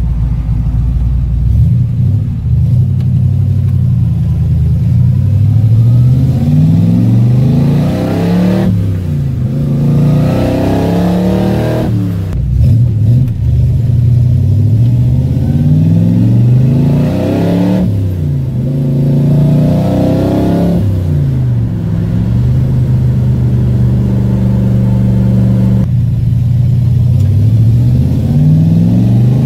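1965 Chevrolet Corvette's V8 engine heard from inside the cabin, pulling hard through the gears. Its pitch climbs and drops back at each upshift several times, with a stretch of steady cruising before a last shift and climb near the end.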